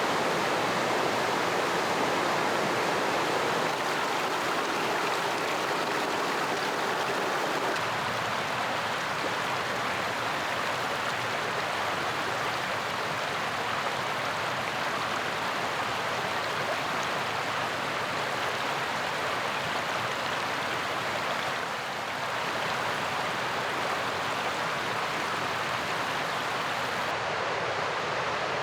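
Mountain river rushing, a steady full-bodied wash of water that barely changes.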